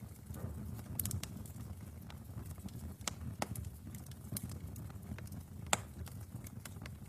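Wood fire burning in a fireplace: a low steady rush of flame with irregular sharp crackles and pops, the loudest pop about six seconds in.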